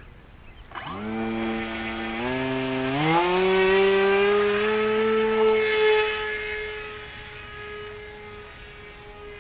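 RC flying wing's motor and propeller whining up as the throttle is opened, the pitch stepping up about a second in and again twice more, then holding steady while the sound fades away as the plane flies off.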